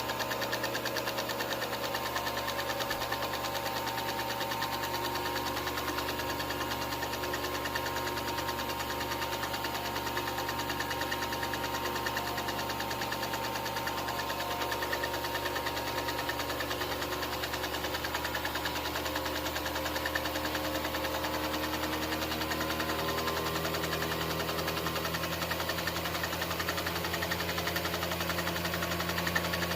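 A 16mm film projector running: a steady mechanical clatter with a constant motor hum underneath.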